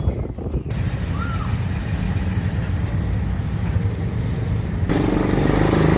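Motor vehicle engine running, with heavy wind rumble on the microphone. About five seconds in, the engine note comes through more strongly and a little louder.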